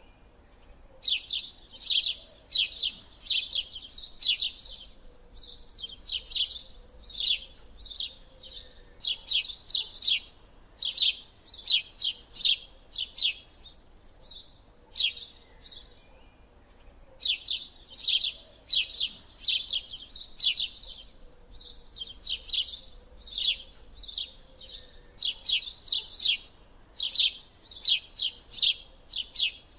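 A small bird chirping in quick bouts of high, downward-sliding chirps, each bout lasting a second or two, with brief pauses between them.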